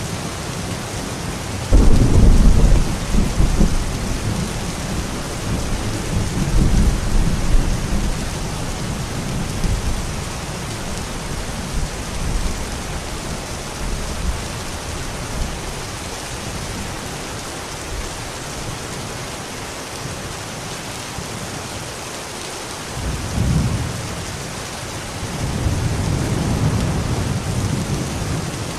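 Steady rain with rolls of thunder. One rumble breaks in suddenly about two seconds in and dies away over several seconds; another swells up near the end.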